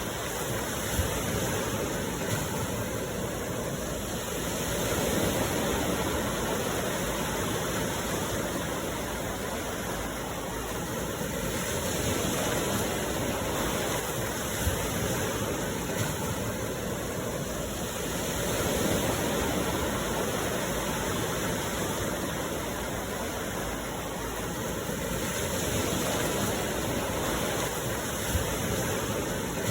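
Sea waves washing onto the shore, a steady surf that swells and eases about every six or seven seconds, with a few brief clicks.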